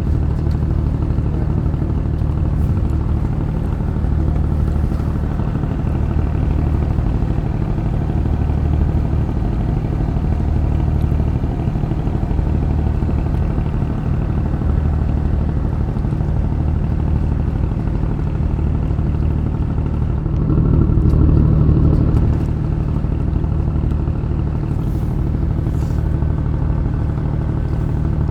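Steady low engine drone that swells briefly about twenty seconds in.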